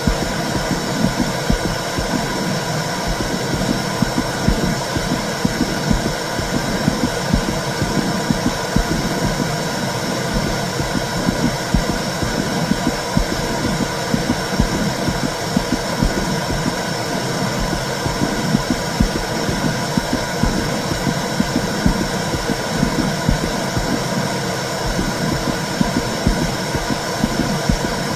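Womb sound: a steady, low, whooshing rumble with a quick, uneven pulsing in it, like the sound heard inside the uterus.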